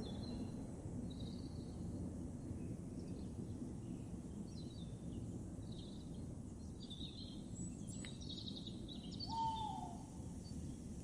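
Small birds chirping over a low, steady background rumble. About nine seconds in there is one short call that falls in pitch.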